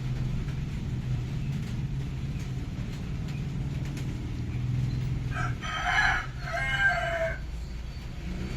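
A rooster crows once, about five seconds in, the call ending on a falling note, over a steady low hum.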